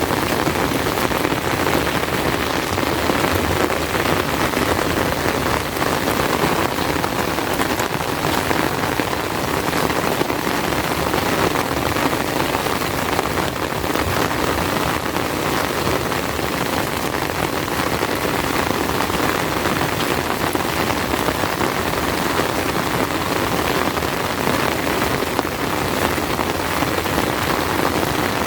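Heavy rain falling steadily, a dense even hiss without letup.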